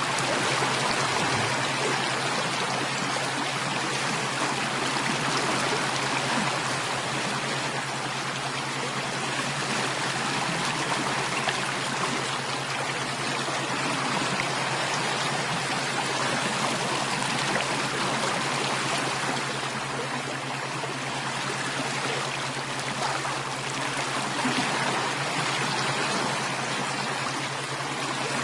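Running water of a stream, flowing steadily and evenly.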